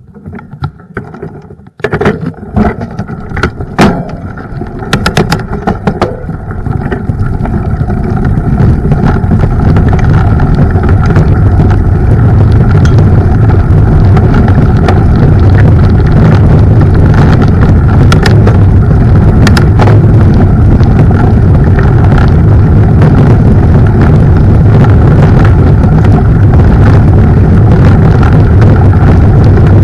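Mountain bike riding off-road, heard through a mounted camera: a few sharp knocks and rattles in the first seconds as it sets off, then a steady, loud rumble of tyres, frame and air noise from about eight seconds in.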